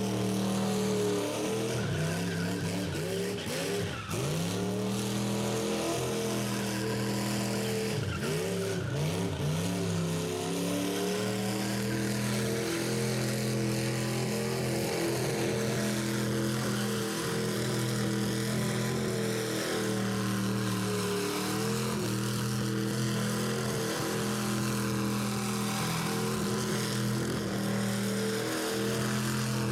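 Rat rod engine held at high revs during a burnout, with its tires spinning and squealing on the pad. The revs dip and climb back twice, a few seconds in and again around eight seconds, then hold steady.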